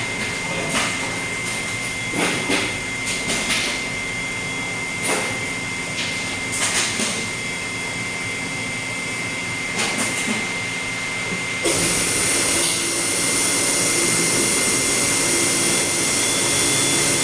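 Refrigeration production machinery running on one of its two compressors: a steady mechanical hum with a constant high-pitched whine and scattered short knocks. About twelve seconds in, a loud steady rush of air or hiss switches on suddenly and continues.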